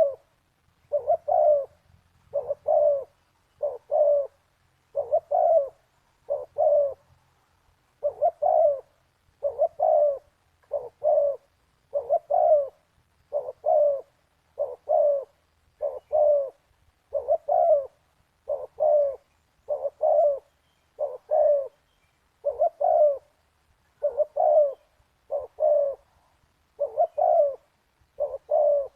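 Spotted dove cooing over and over, a pair of soft coos roughly every second and a quarter in a steady rhythm.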